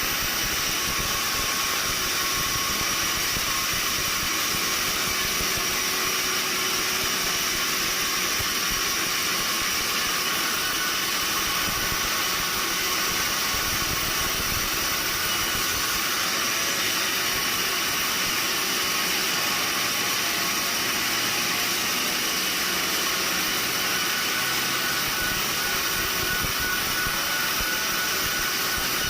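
Sawmill machinery running: a steady, even, hissing noise with no distinct cuts, knocks or changes in speed.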